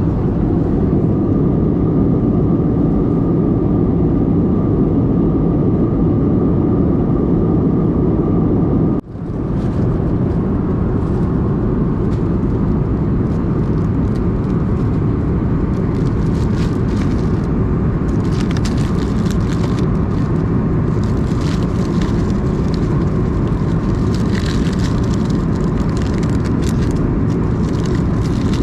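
Airbus A321 passenger cabin noise: the steady, loud rush of the jet engines and airflow around the fuselage. After a brief dropout about nine seconds in, scattered light rattling clicks sit over the roar.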